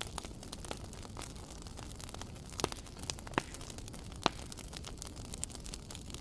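Wood fire crackling in a fireplace: a steady low hiss and rumble of burning with many small sharp crackles and a few louder pops between about two and a half and four and a half seconds in.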